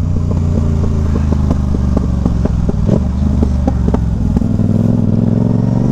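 Sport motorcycle engine running steadily while riding, with short clicks scattered over it; the lowest part of the engine note changes about four and a half seconds in.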